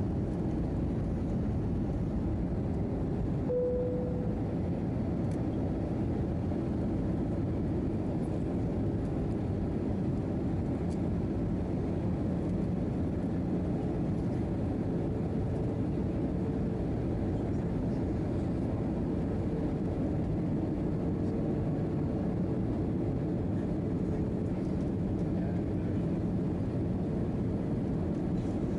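Steady cabin noise of an Airbus A319-111 jet airliner heard from inside the cabin: an even, low rush of engines and airflow. A short faint tone sounds about three to four seconds in.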